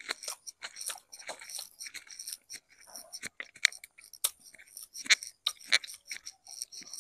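Close-up eating sounds: a person chewing a mouthful of rice, fish and boiled eggplant, with many irregular wet smacks and crisp clicks, as fingers pick the food from a stone plate.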